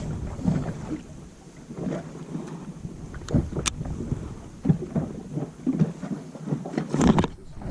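Water slapping unevenly against a drifting small boat's hull, with wind buffeting the microphone. A few sharp clicks or knocks stand out, two a little after the midpoint and one near the end.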